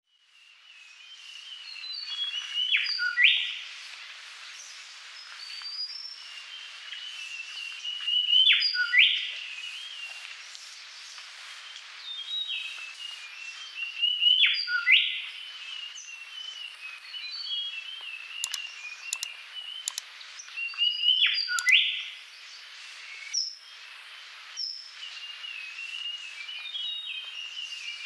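Birds chirping and twittering steadily, with a louder bright phrase recurring about every six seconds.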